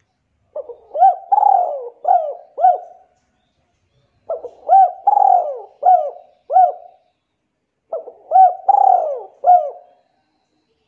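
A bird calling: the same phrase of four or five short arching notes given three times, with pauses between.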